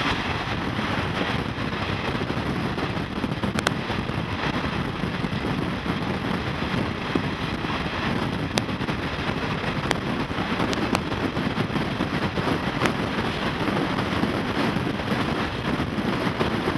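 Shatabdi Express passenger train running at speed, heard from an open coach window: a steady rush of wheel and track noise mixed with wind on the microphone, with a few sharp clicks scattered through.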